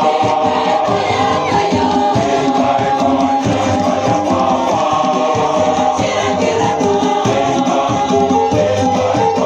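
A choir singing a church hymn together, with percussion such as shakers keeping a steady beat.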